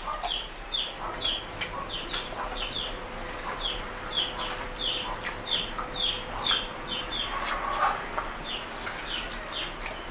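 A bird chirping over and over, short high falling chirps about two to three times a second, over close-up chewing and mouth clicks from eating.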